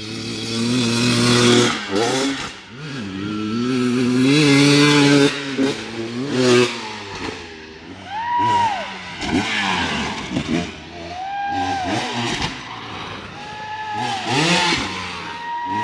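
Dirt bike engines revving hard and easing off again and again, the pitch climbing and dropping in repeated swells.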